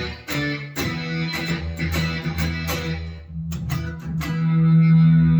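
Electric guitar played through a Boss SY-200 guitar synthesizer pedal on its Filter Lead 2 preset: a run of picked synth lead notes, the last one held and swelling near the end.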